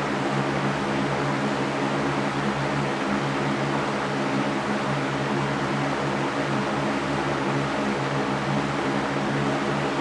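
Electric fan running steadily: an even whoosh of moving air with a low motor hum under it.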